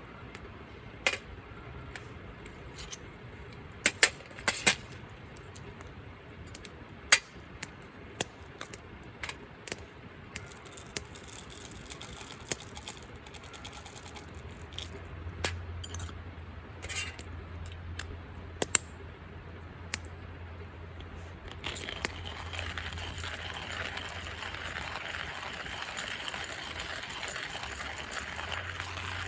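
Scattered light metallic clinks and knocks of camp cookware being handled, then about two-thirds of the way through a steady hiss sets in and holds.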